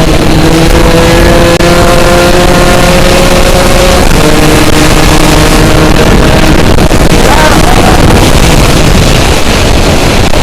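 Two-stroke Yamaha motorcycle running loud under way, its exhaust missing the silencer baffle insert, which has fallen out. The engine note climbs slowly, then drops to a lower pitch about four seconds in as it shifts up, over heavy wind and road noise.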